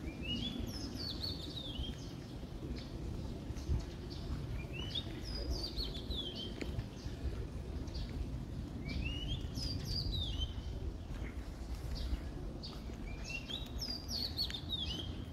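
A songbird singing the same short phrase four times, about four to five seconds apart: quick notes that rise and then fall in pitch. A steady low rumble runs underneath.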